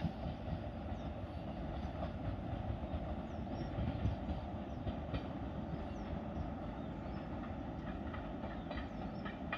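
Indian Railways passenger train running on the line: a steady low rumble of coaches rolling over the track, with scattered faint wheel clicks.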